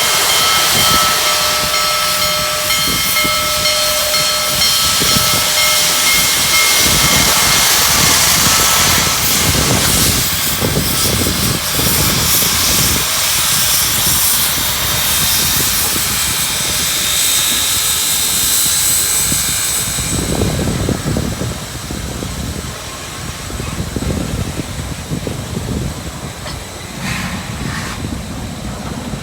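Union Pacific Big Boy 4014, a 4-8-8-4 articulated steam locomotive, venting steam with a loud, steady hiss. About two-thirds of the way through the hiss eases and low, uneven rumbling pulses come through.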